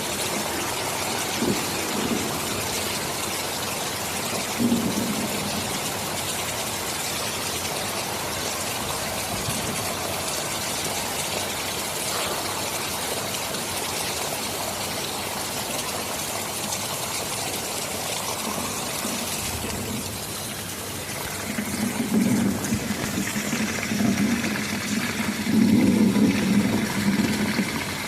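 Steady heavy rain making a constant hiss. From about three-quarters of the way in, low rolling rumbles of thunder come and go and grow louder toward the end.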